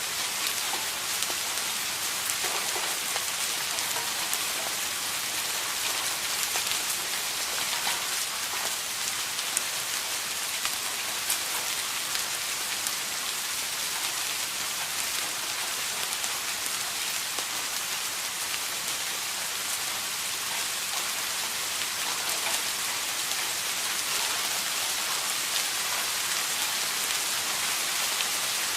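Steady rain falling, a continuous even hiss with scattered individual drop ticks.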